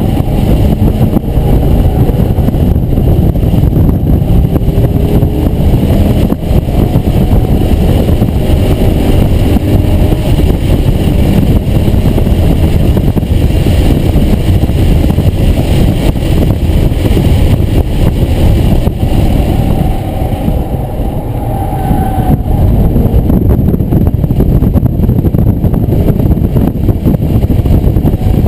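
Car engine heard from inside the cabin at racing pace, loud and continuous, its pitch rising and falling with acceleration and shifts, with road and wind noise; it eases off briefly about twenty seconds in.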